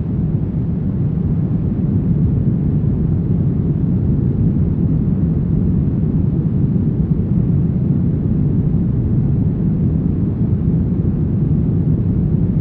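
Steady brown noise: an even, deep rushing sound, strongest in the bass with little high end, unchanging throughout.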